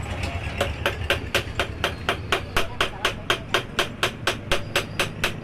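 Hammer blows in quick, even succession, about four a second, starting about half a second in, during work on a motorcycle shock absorber.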